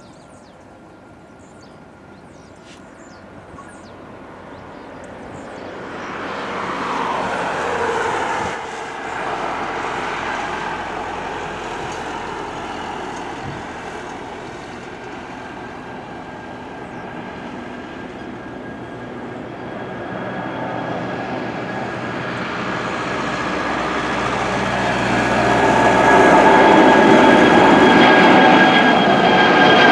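Jet engines of an Airbus A340-500, its four Rolls-Royce Trent 500 turbofans, running with a steady high whine over a broad roar that grows louder, dips briefly about eight seconds in, and is loudest in the last few seconds.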